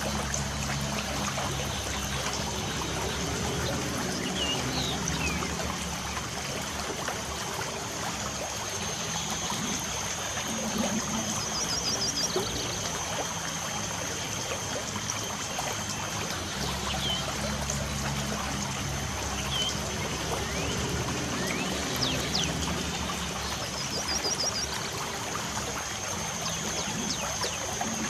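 Light rain falling as a steady, even hiss, with birds chirping now and then and a brief high trill twice. A faint steady high tone runs underneath.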